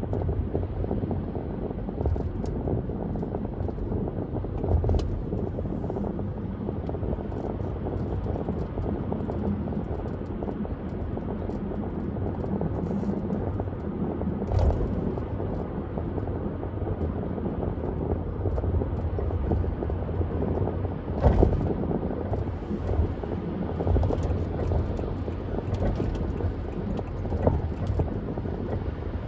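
A car driving at speed: a steady low rumble of road and wind noise, with a few short knocks, the loudest about two-thirds of the way through.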